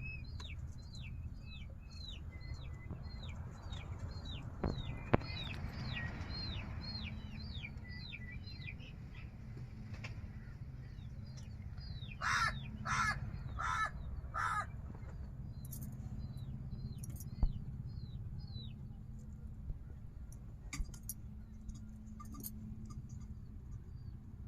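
Birds calling: a small bird repeating short, high, falling chirps, two or three a second, with a crow cawing four times about halfway through. A low steady hum and a few sharp clicks lie underneath.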